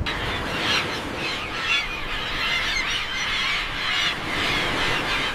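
A flock of birds calling and squawking, many harsh calls overlapping without a break.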